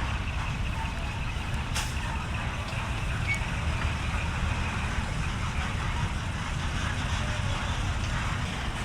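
Heavy truck diesel engine idling with a steady low rumble, and one sharp click a little under two seconds in.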